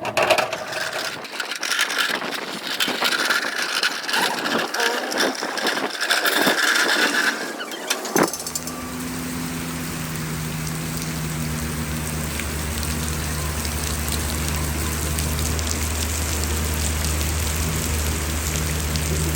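Irregular clattering and knocking for about eight seconds, then after an abrupt change a steady, low machine hum.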